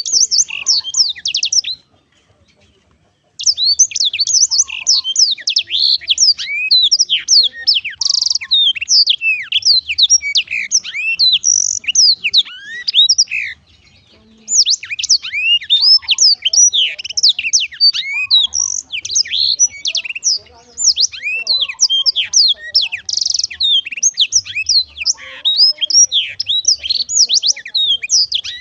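Blackthroat (black-throated canary) singing a long, fast, varied song of high chirps and trills. It breaks off briefly about two seconds in and again around the middle, then resumes.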